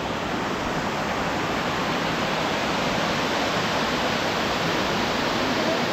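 Steady, even rush of water from the second tier of Elephant Falls, a waterfall heard up close.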